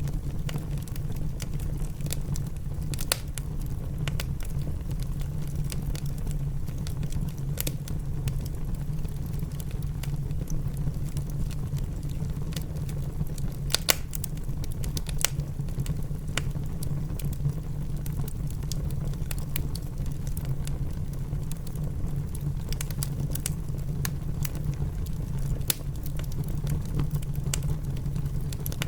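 Wood fire crackling in a fireplace, with sharp pops at irregular intervals, the strongest about 14 seconds in, over a steady low rumble of rain.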